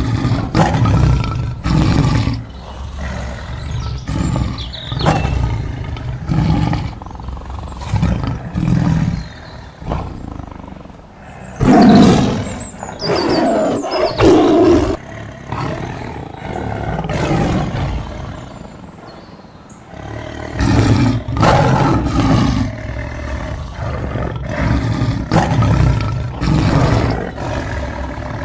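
Big cat roaring: a long series of loud roars coming every second or two, the loudest and longest about halfway through.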